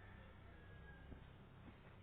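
Near silence: faint room tone with a low hum and a couple of slight ticks.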